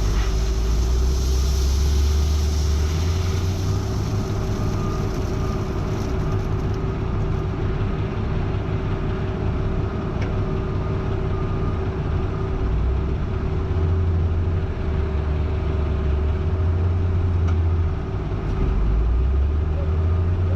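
Heavy diesel truck engine running steadily, a low drone whose pitch steps up and down a few times.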